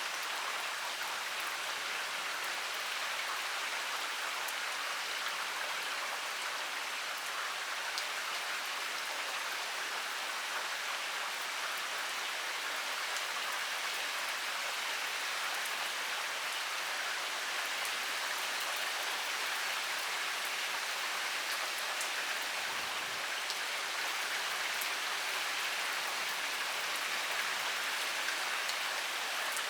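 Heavy rain pouring steadily, an even hiss with a patter of individual drops on surfaces.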